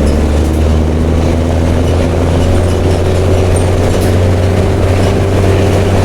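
Mercedes-Benz OM366LA inline-six turbo-diesel engine of a city bus running with an open, unmuffled exhaust, a loud steady low drone.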